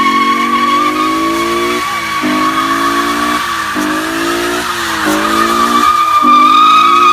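Car doing a burnout: the tyres squeal steadily and loudly while the engine revs climb and fall back about five times, roughly once a second.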